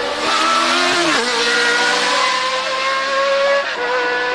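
Historic Formula 1 race car engine at high revs, driving past under hard acceleration; its pitch climbs steadily and drops sharply twice, about a second in and again near the end, as at gear changes.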